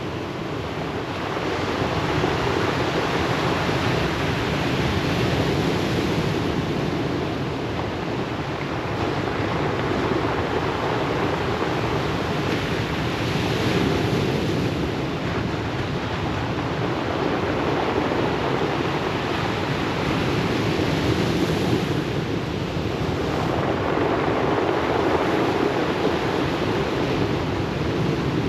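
Ocean surf washing onto a beach in a continuous rush that swells and eases every few seconds.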